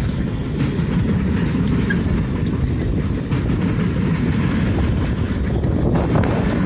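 Railroad cars rolling past on the rails: a loud, steady, low noise of steel wheels on track.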